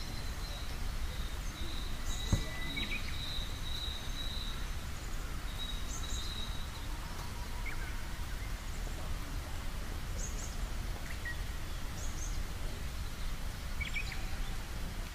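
Birds chirping sporadically over a steady low outdoor rumble, with a thin high steady note through the first half. A single sharp knock sounds about two seconds in.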